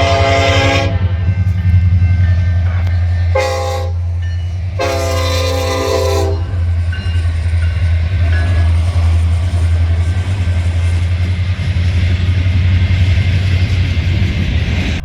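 A passing train's locomotive air horn sounds three blasts: one ending about a second in, a short one, then a longer one about five seconds in. Under the horn, a deep, steady diesel rumble runs, and after the last blast the train goes by with an even rush of wheel and rail noise.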